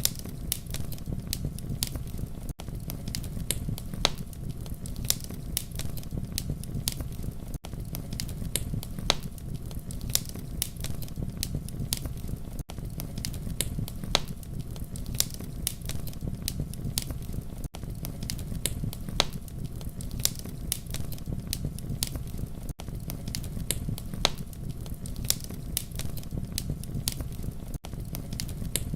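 Wood fire burning with a steady low rumble and frequent sharp crackles and pops. Brief dropouts about every five seconds.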